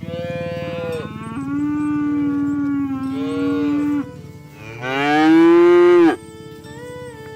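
Cattle mooing: two long moos. The second, about five seconds in, is the louder one; it rises in pitch and cuts off abruptly.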